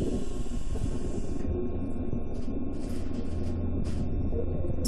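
Steady low hum inside a Keikyu commuter train car standing at a station, with a few short hisses from about halfway through.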